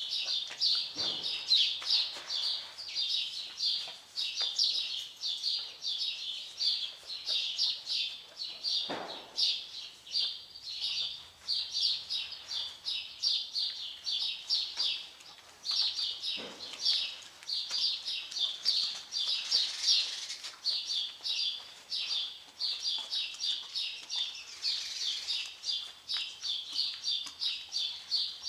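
Small birds chirping rapidly and without a break, in a high, busy twitter.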